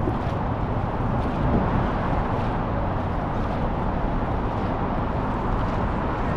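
Steady rumble of wind on the microphone out on open water, heaviest at the low end.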